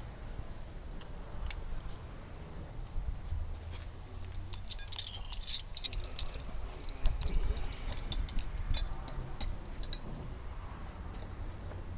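Small metal parts and tools clinking and jingling, in scattered clicks with two busier clusters of rattling about four and seven seconds in, over a steady low hum.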